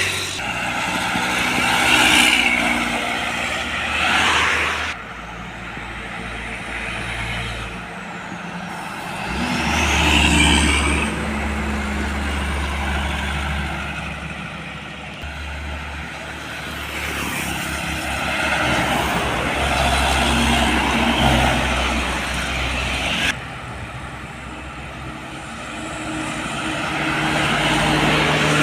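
Heavy diesel trucks passing one after another on a road, each engine growing louder and then fading away. Around five seconds in and again later, the sound drops off suddenly.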